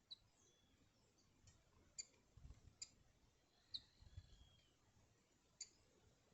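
Near silence, with faint short high chirps from birds scattered through it and a few brief soft clicks.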